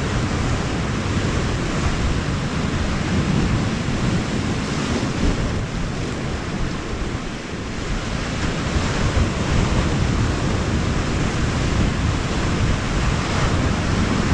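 Sea waves washing in steadily, with wind on the microphone.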